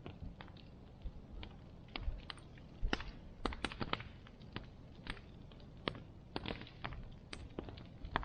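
Wood bonfire crackling: irregular sharp snaps and pops, a few louder clusters, over a low steady rumble of the burning fire.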